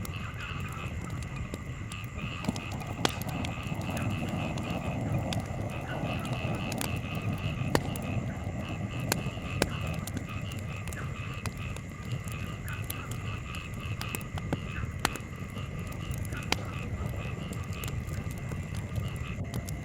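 Wood campfire crackling, with sharp irregular pops every second or so over a low steady rumble. A steady, high, pulsing chorus runs in the background.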